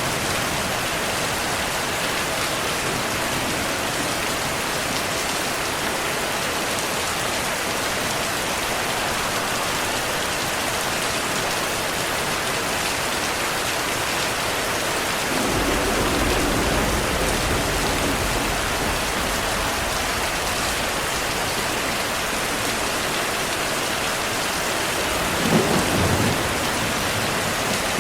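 Steady rain, with a low thunder rumble that swells a little past halfway and a louder, sharper thunderclap near the end.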